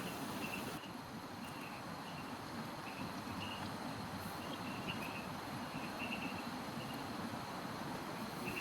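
Steady rain falling, a continuous hiss, with short high chirps repeating irregularly about once or twice a second.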